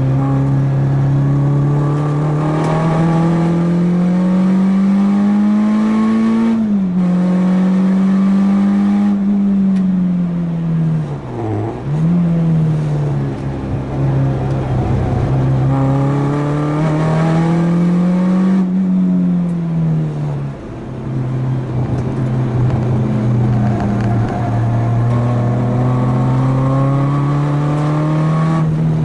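Renault Clio 2 RS four-cylinder engine under hard acceleration through the gears. The pitch climbs slowly and drops sharply with a gear change about seven seconds in. It dips steeply once near twelve seconds, falls off around twenty seconds as the car slows, then climbs again.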